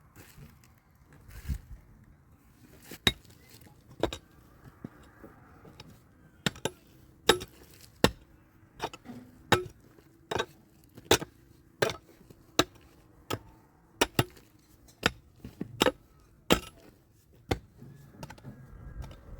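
A series of sharp, clinking knocks of a hard tool striking a hard surface. A few come scattered at first, then they settle into a steady beat of about one every three-quarters of a second, stopping shortly before the end.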